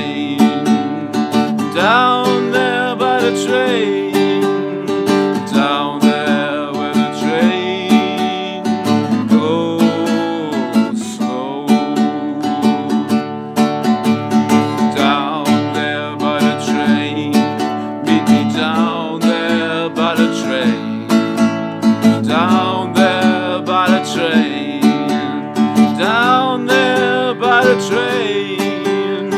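Acoustic guitar strummed in a steady rhythm, with a wavering melody line that bends in pitch over the chords.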